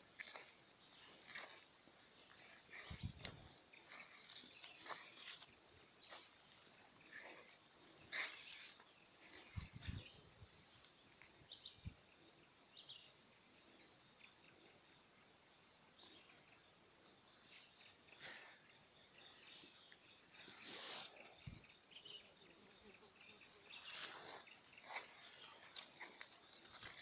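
Steady high-pitched trill of crickets or similar insects, with scattered faint clicks and knocks and one louder short hissing burst about three-quarters of the way through.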